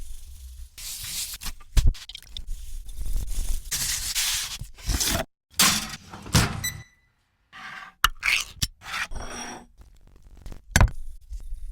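Kitchen food-prep sounds: a run of short scrapes and knocks, cut together with abrupt breaks, and a brief metallic ring a little past the middle.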